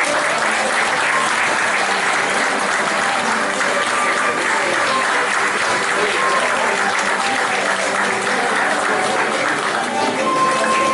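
Audience applauding steadily, with a few brief whistle-like tones over the clapping.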